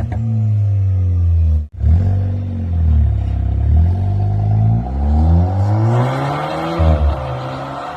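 Turbocharged four-cylinder engine of a stage-2 tuned VW Polo 1.2 TSI with full exhaust and downpipe, its exhaust note rising and falling in pitch again and again as it is revved and driven. The sound cuts out briefly under two seconds in.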